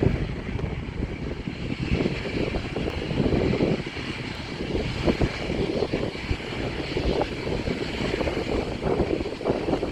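Airplane engines running, a steady rushing roar that rises and falls a little.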